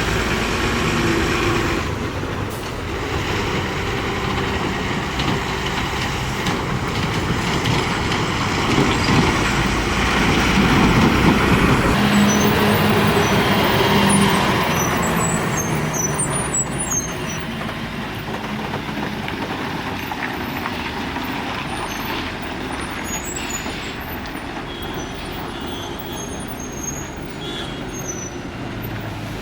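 Lorry engine running as the truck moves along the road, growing louder to a peak about halfway through and then slowly fading away.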